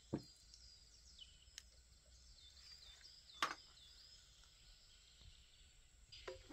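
Quiet outdoor ambience with a small bird chirping repeatedly in short high calls, and two sharp knocks, one right at the start and a louder one about three and a half seconds in.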